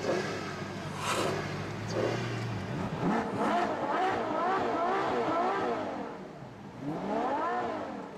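Supercar engine running steadily, then revving: its pitch climbs about three seconds in and swings up and down several times, with one more rise and fall near the end.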